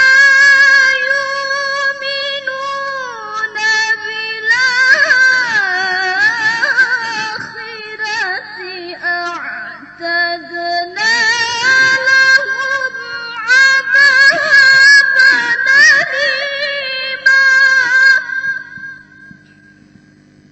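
A female reciter chanting the Qur'an in melodic tilawah style: long, ornamented phrases with wavering held notes that glide up and down, ending about 19 seconds in.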